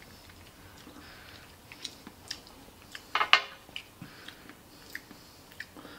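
Quiet chewing and small wet mouth clicks of someone eating sushi, with one louder short sound about three seconds in.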